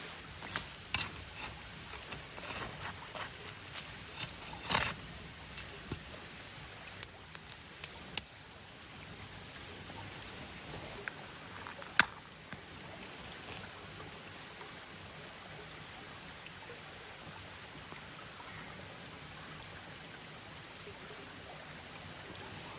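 Steady rush of a stream flowing past, with scattered clicks and taps through the first eight seconds or so and one sharp click about twelve seconds in.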